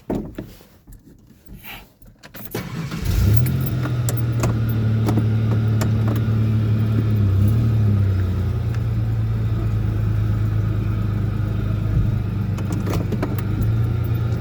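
Pickup truck engine started with the key: a few clicks, then the engine catches about three seconds in and runs steadily at low revs while the truck is pulled forward a short way, with a slight change in pitch partway through.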